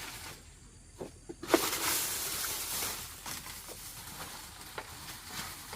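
Storm rain hissing and pattering: a few light knocks, then about a second and a half in a sudden loud rush of rain noise that slowly eases.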